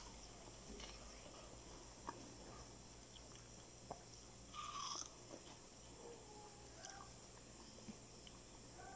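Faint, soft chewing of juicy watermelon, with a few small mouth clicks and one brief louder wet mouth sound about halfway through.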